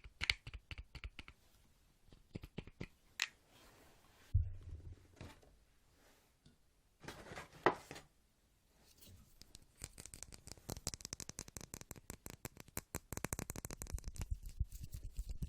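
ASMR fast tapping and hand sounds close to the microphone: scattered taps and scratching, a low thump about four seconds in, then from about ten seconds in a rapid, even run of taps.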